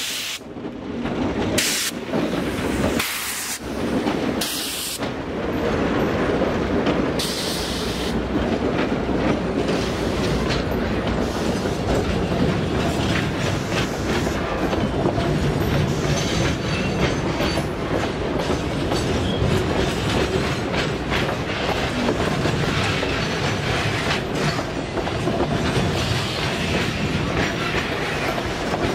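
Two GE C30-7 diesel locomotives pass close by at the start, with several loud surges in the first few seconds, followed by a long train of loaded metre-gauge pulp wagons rolling past with a steady clickety-clack of wheels on the rails.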